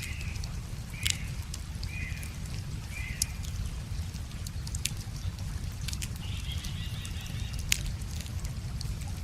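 Wood fire crackling with sharp pops scattered throughout, over a steady low rush. A bird gives four short chirps about a second apart in the first few seconds, then a brief warbling call a little past the middle.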